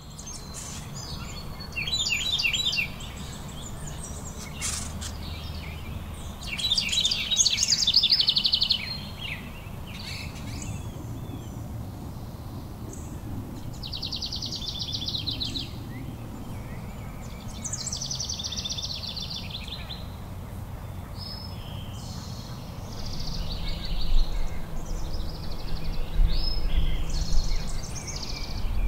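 Songbirds singing short, rapid trilled phrases every few seconds over a steady low rumble of outdoor background noise, which gets louder near the end.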